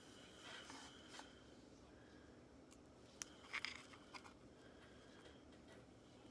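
Faint handling noises of small hard objects: light scraping in the first second or so, then a few small sharp clicks about three to four seconds in.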